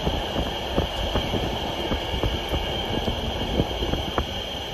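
Passenger coach of an electric-hauled train running over curved track and pointwork as it comes into a station, heard from inside the coach. There is a steady rumble with irregular clicks and knocks from the wheels, and a steady high tone above it.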